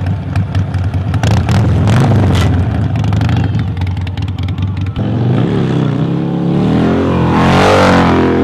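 A vehicle engine running hard with a rapid crackle. About five seconds in, it cuts suddenly to an engine revving up and down several times, rising highest near the end.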